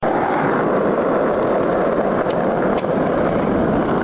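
Skateboard wheels rolling over rough pavement: a steady rumble with a few faint clicks.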